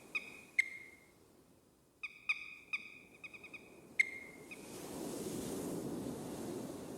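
A bird calling with short, sharp, clipped notes: single calls, then a quick run of about half a dozen, then one more about four seconds in. Near the end a soft steady hiss of ambient noise rises under them.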